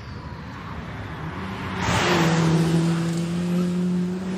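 A race car driving past at speed, with a rush of noise about two seconds in followed by a steady engine note.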